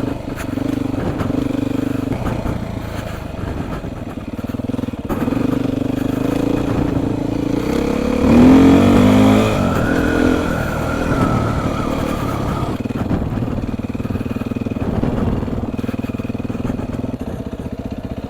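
Beta 430 RR single-cylinder four-stroke dirt bike engine running while ridden on a trail, revving up sharply about eight seconds in, its loudest moment, then easing back to a steadier, lower running.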